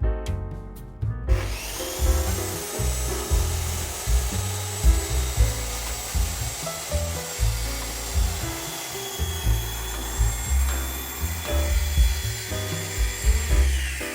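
A power saw cutting wood. The motor spins up about a second in, cuts steadily with a high whine, and winds down near the end, over background music with a steady beat.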